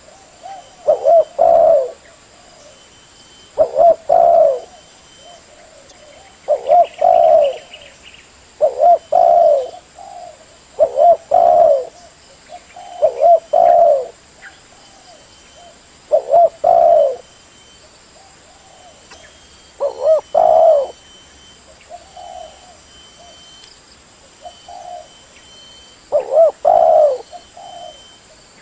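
Spotted dove cooing: a short two- or three-note coo phrase repeated about every two to three seconds, with a couple of softer phrases in the last third.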